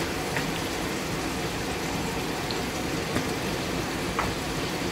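Chopped tomatoes and spices frying in oil in a large pot: a steady sizzle, with a few faint clicks.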